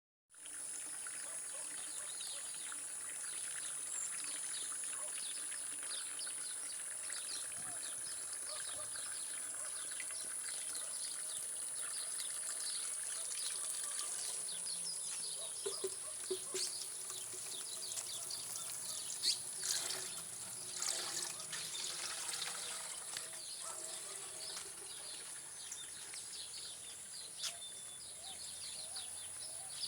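Natural outdoor ambience: many short bird chirps over a steady high-pitched buzz.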